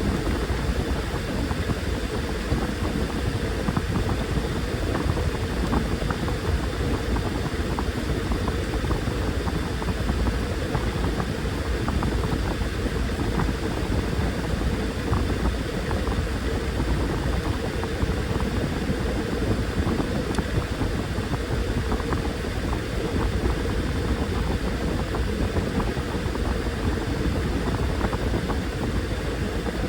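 Washing machine running through its cycle: a steady churning noise with a low rumble and many small irregular clicks.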